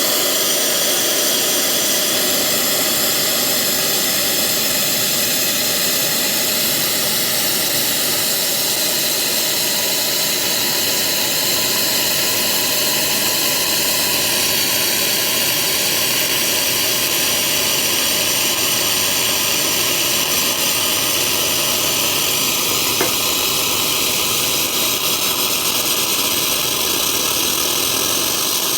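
Steady hiss of hot water and steam rushing out of an espresso machine's open hot water tap as the switched-off boiler is drained under its own pressure. It holds steady throughout, with faint tones in it slowly rising in pitch.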